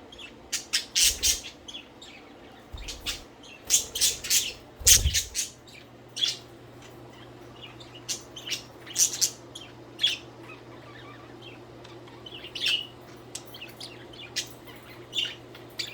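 Pet budgies chirping in short, sharp bursts, busiest about a second in, around four to five seconds, and again around nine seconds. A few dull low thumps come in the first five seconds, over a steady low hum.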